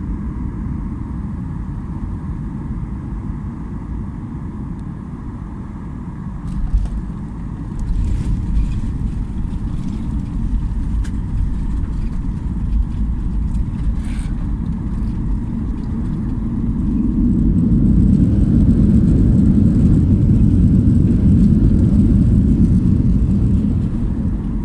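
Cabin noise of a Boeing 737-800 airliner landing: a steady low rumble with a few sharp knocks about a quarter of the way in, swelling louder for several seconds in the second half.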